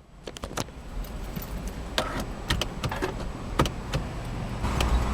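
Keys jangling and sharp clicks of handling the key and the push-button start inside a 2014 Audi A5 2.0T. Under them, a low engine hum from its turbocharged four-cylinder grows and is strongest near the end.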